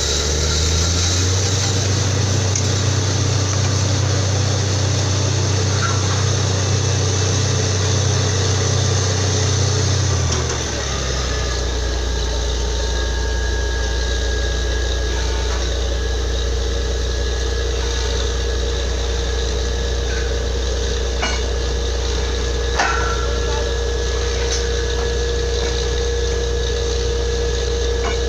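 Borewell drilling rig's engine running steadily. Its deep note rises and holds for about ten seconds, then drops back to a steady run. One sharp knock comes about two-thirds of the way through.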